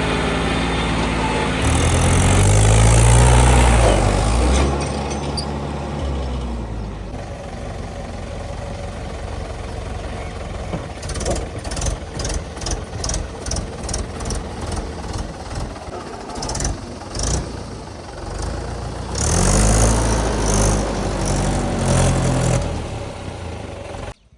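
Tractor diesel engine running under load, revving up and back down twice. Between the revs the engine note turns rougher, with a regular pulsing about twice a second.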